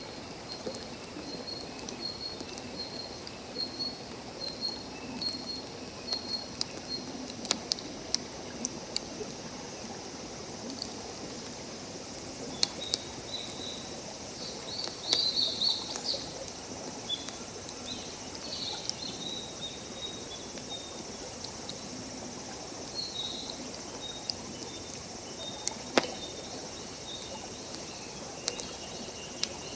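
Campfire crackling with scattered sharp pops, the loudest near the end, over a steady outdoor hiss of running water. Throughout, small high chirps repeat in quick runs.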